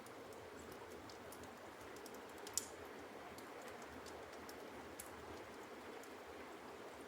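Wood fire burning in an open fireplace: a soft steady hiss with scattered small crackles from the logs, and one sharper pop about two and a half seconds in.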